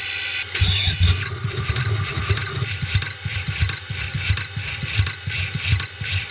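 CNC milling machine cutting a brass part: a steady spindle whine gives way about half a second in to an uneven, rapid scraping pulse as the end mill cuts.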